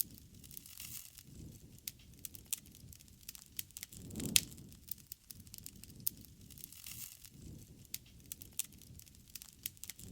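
Wood campfire crackling: frequent irregular sharp pops and snaps of burning wood over a soft low rush of flame, with one louder pop about four seconds in.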